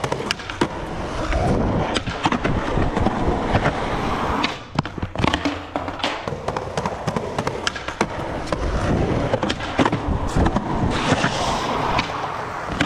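Skateboard wheels rolling on concrete, with repeated sharp clacks and knocks from the board.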